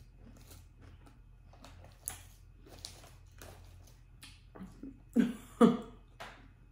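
Close-up chewing of a mouthful of salad with ranch: a run of small soft crunches and wet clicks, with two short hummed sounds about five seconds in.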